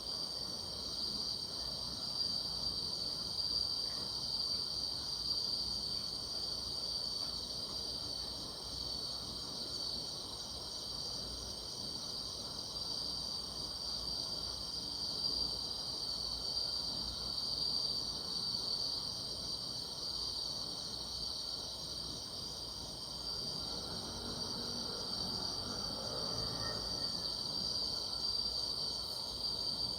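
Night-time chorus of grass insects such as crickets, a steady unbroken high-pitched trilling.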